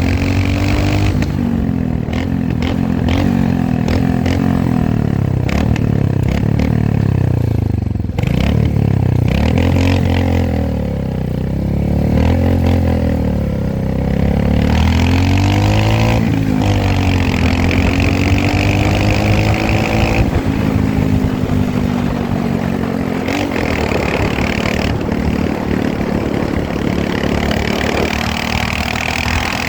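Royal Enfield Himalayan motorcycle engine under way, its pitch climbing and dropping over and over as it accelerates and changes gear, with the revs falling off sharply about eight seconds in before climbing again.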